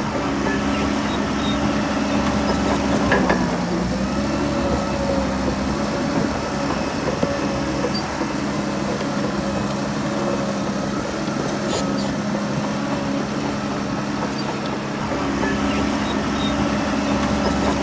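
Heavy diesel engine of earthmoving machinery running steadily, its pitch sagging briefly about three seconds in and again at the end as it takes load. A couple of sharp knocks are heard, one about three seconds in and one near the middle.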